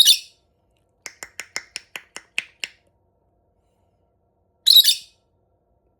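Pet parrot giving a short harsh squawk, then a quick run of about ten sharp clicks over a second and a half, and another harsh squawk near the end.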